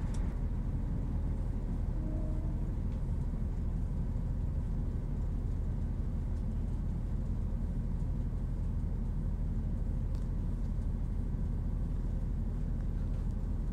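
Steady low running rumble heard from inside the carriage of a Northern Class 170 Turbostar diesel multiple unit at speed: engine drone and wheels on the rails.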